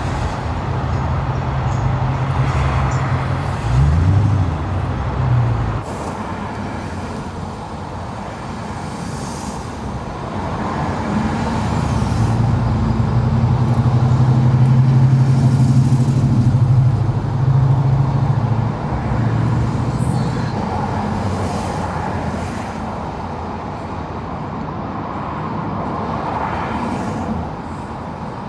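Classic car engines running as cars move through, with a brief rev about four seconds in and a louder, steady engine rumble building and passing in the middle.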